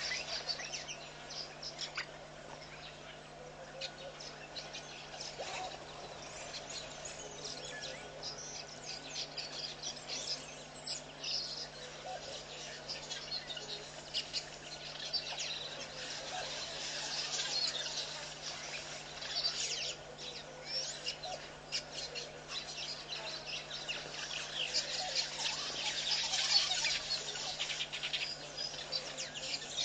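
Many small birds chirping and peeping in short, high calls, growing busier and louder near the end.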